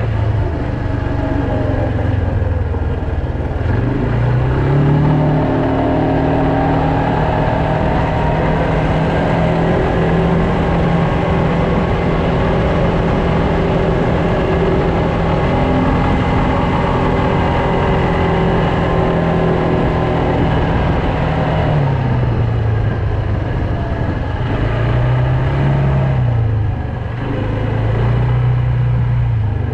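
Loncin X-Wolf 300 quad bike engine under way: it revs up about four seconds in, holds a steady pitch while cruising, then the revs drop and rise again a few times near the end as the speed changes, over a rushing noise of wind and road.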